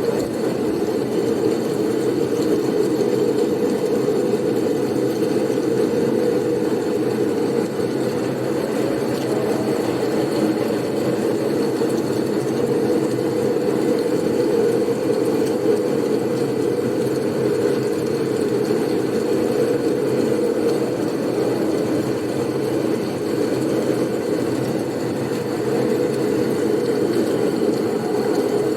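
Blizzard ambience: a steady, low-pitched rush of wind noise that holds even with no breaks.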